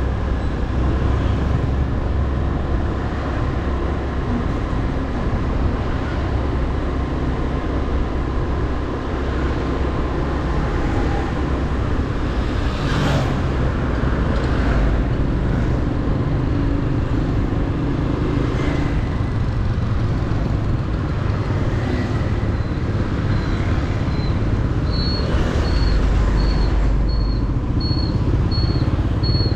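Motorbike engine running steadily while being ridden, with road and wind noise. About 25 seconds in, a regular high-pitched beep starts, repeating roughly once or twice a second.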